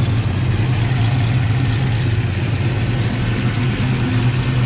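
Turbocharged Ford 302 V8 with a 60 mm turbo idling steadily, its downpipe flange just re-tightened to cure an exhaust leak.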